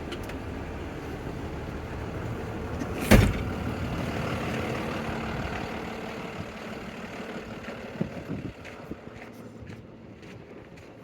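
A loud clunk about three seconds in, then the box truck's lift gate hydraulic pump motor runs with a steady hum for about five seconds and stops, over the low rumble of the idling Cummins diesel engine.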